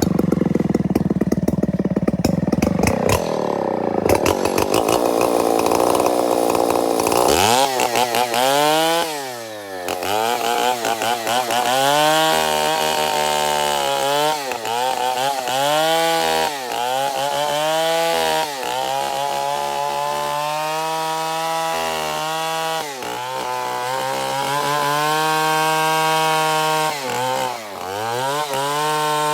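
Stihl 070 two-stroke chainsaw cutting binuang wood. For about the first seven seconds it runs rough and low, then it revs up into the cut. Its pitch sags and recovers over and over as the chain takes load in the wood.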